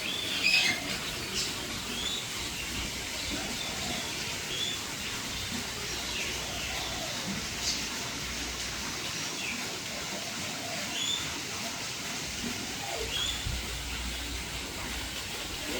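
Birds calling in an aviary: a short high chirp repeated every second or two, with a louder cluster of calls about half a second in, over a steady background hiss.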